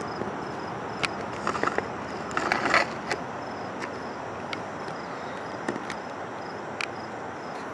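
Footsteps crunching along a trail, with scattered clicks and a denser patch of crunching about two to three seconds in, over a steady background hiss and a faint high, evenly pulsing chirp.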